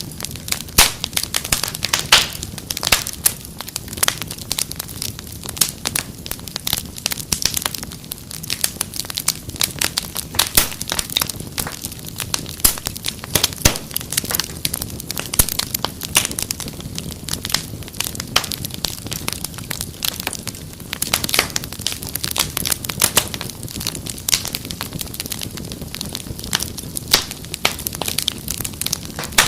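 Wood fire crackling steadily: dense, irregular sharp pops and snaps over a low soft rumble of flames.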